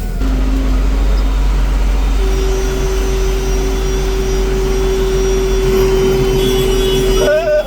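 Truck cab noise while driving: the engine and road noise run steadily and low. A single steady tone is held for about five seconds from about two seconds in, and a flute melody comes in near the end.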